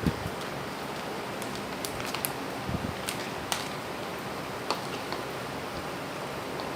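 Steady hiss with a few light, sharp clicks scattered through it, typical of a utensil knocking a bowl while a macaroni salad is handled.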